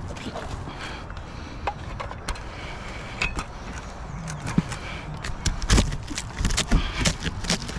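Irregular knocks, clicks and scrapes of hand work on roofing materials, coming thicker in the second half, over a steady low hum.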